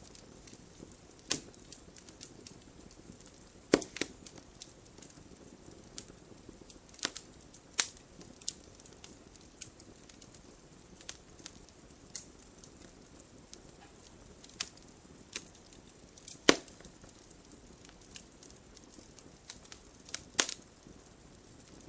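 Wood fire crackling: irregular sharp pops and snaps, a handful of them much louder than the rest (the loudest about sixteen seconds in), over a faint steady hiss.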